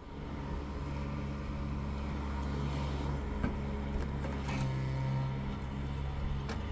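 A motor running with a steady low drone, with a few light knocks over it.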